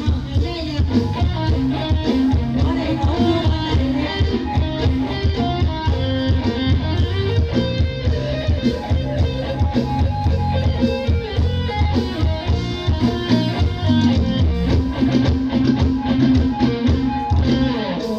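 Mor lam band playing an instrumental passage: a plucked electric guitar melody over a steady drum and bass beat.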